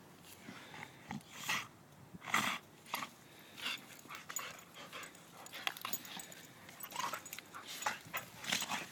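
Two dogs play-fighting, one of them a pit bull, with short dog noises coming every second or two and quieter stretches between.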